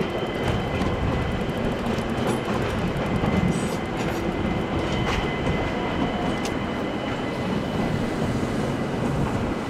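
A passenger train moving through the station: steady running noise with a constant high whine and scattered clicks of wheels over rail joints.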